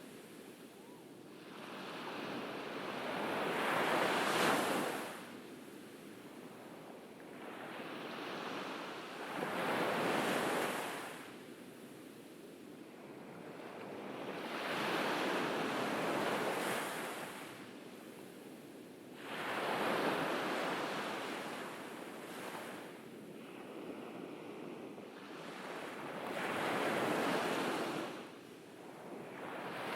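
Ocean waves breaking and washing up a beach: about five swells of surf, each rising and falling away over a few seconds.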